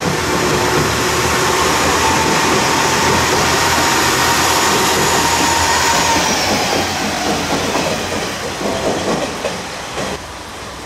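KiHa 126 diesel railcar approaching over points. Its running noise is steady with a held tone for about six seconds, then drops in pitch and level. Wheels then clack over the switches, and the sound falls away just before the end.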